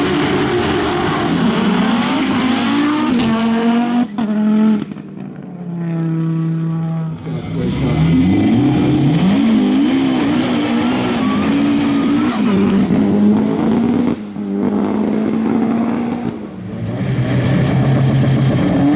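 Hill-climb race car engines revving hard and accelerating away from the start, the pitch climbing and falling back with each gear change. The engine note drops off briefly about four seconds in and again about fourteen seconds in, then picks up again.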